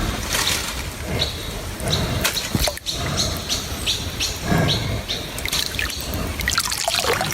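Birds chirping: many short, quick falling chirps repeated over a low background rumble.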